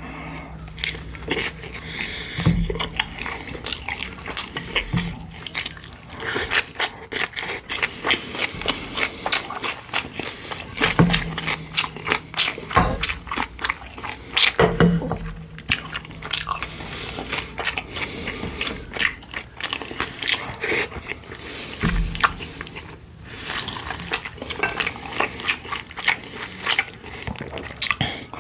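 Close-miked eating of pork-bone soup (gamjatang): wet chewing and mouth clicks, over and over, with a few dull thumps.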